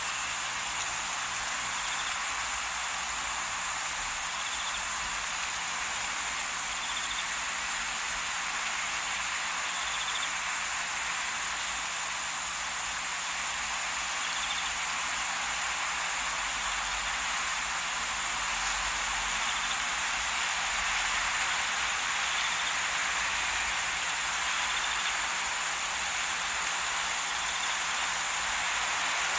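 Steady outdoor ambience: an even high hiss with a faint short high call repeating about every two and a half seconds.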